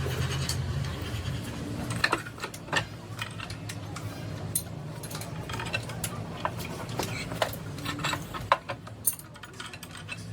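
Metal tools and parts clinking and tapping during hand work on an engine, scattered sharp clicks over a steady low hum.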